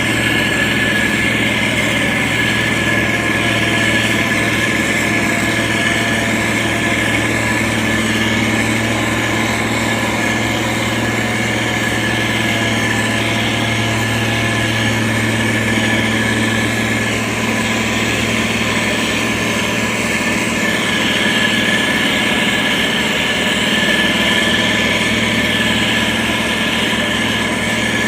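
Heavy road-construction machine's engine running steadily at an even speed, with a constant hum.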